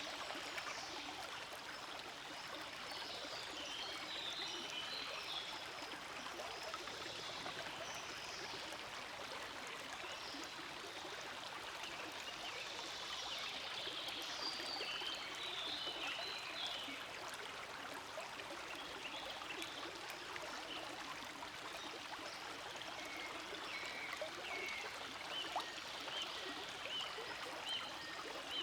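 Forest stream flowing steadily over stones, a constant rushing and trickling of water with brighter, higher splashes that come and go.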